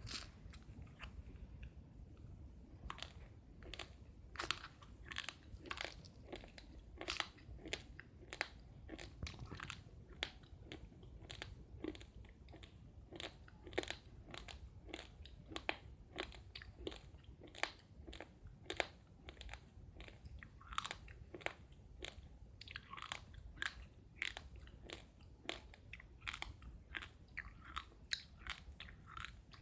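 A person chewing uncooked rice grains close to the microphone: a steady run of sharp, brittle crunches, a few a second, as the hard grains crack between the teeth.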